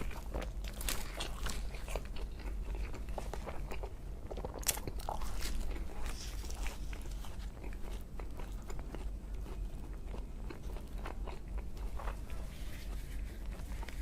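Close-miked eating: crunching bites and chewing, with many short sharp crackles throughout.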